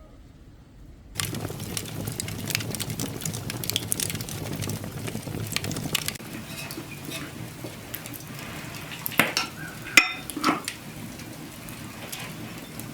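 Cooking sounds start suddenly about a second in: a steady crackling sizzle with clinks and knocks of pots and utensils, and a few sharper, louder knocks near the end.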